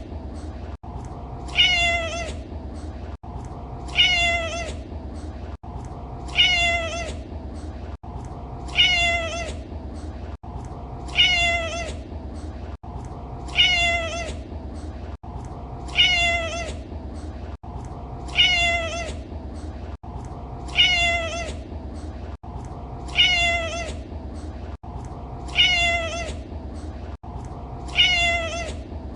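A domestic cat meowing over and over, one short meow about every two and a half seconds in an identical repeating loop, with a steady low hum underneath.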